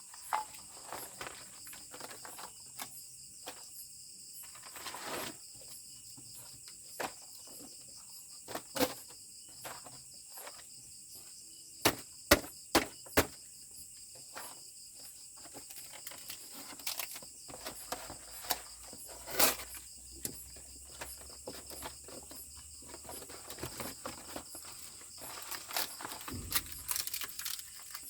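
Insects, crickets or the like, chirping steadily and high-pitched, with scattered sharp clicks and knocks; the loudest is a quick cluster about halfway through.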